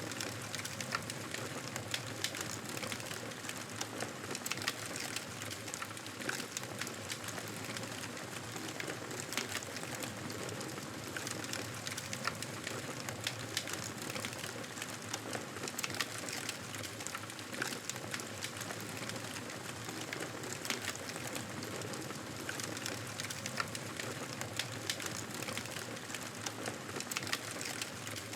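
Campfire crackling: a continuous hiss of burning wood with frequent small, irregular pops and snaps.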